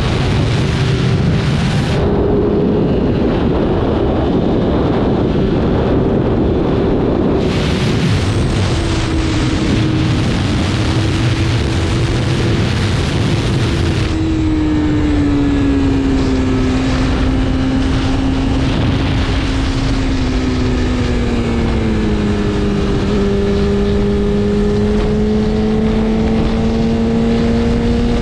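BMW S1000RR inline-four engine running at a steady cruise under wind rush, its pitch easing slowly lower over the middle of the ride and rising a little near the end.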